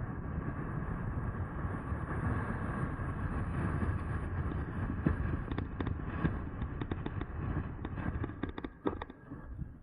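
E-bike riding noise: a steady low rumble of wind and rolling, with a scatter of sharp clicks and knocks over the second half, likely tyres on loose dirt and the bike rattling over bumps.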